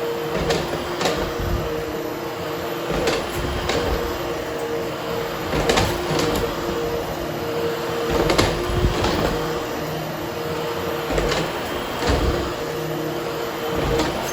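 Hoover HushTone upright vacuum running with a steady two-tone motor hum as it is pushed back and forth over nylon carpet to groom the pile. Sharp knocks come every second or two.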